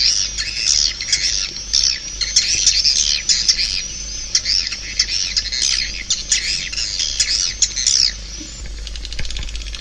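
Swiftlet calls from a swiftlet-house lure recording: a dense, continuous stream of short squeaky chirps and chattering. About eight seconds in it thins to fainter, higher chirps.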